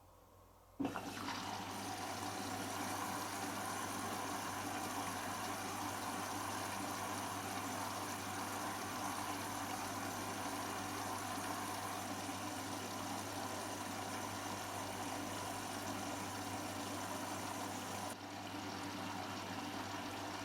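Hotpoint Extra WMXTF742K washing machine taking in water: the inlet valve opens with a click about a second in, then water rushes steadily into the machine. The rush thins slightly near the end.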